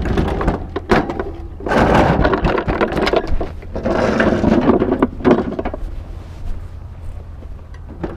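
Knocking and clattering handling noises in a couple of short spells, over a steady low rumble of wind on the microphone.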